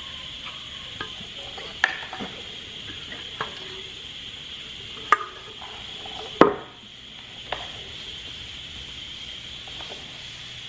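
Scattered light clicks and knocks of hands and objects being handled, the loudest about two thirds of the way in, over a steady high-pitched hum.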